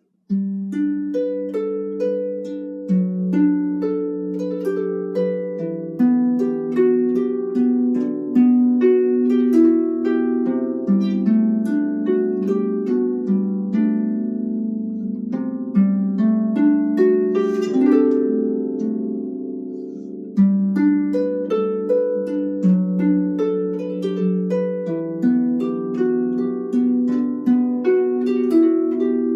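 Solo harp playing a flowing piece of plucked arpeggios and chords, each note ringing and fading. A little past halfway a quick run sweeps up into the high strings, the sound eases off briefly, then the playing picks up again.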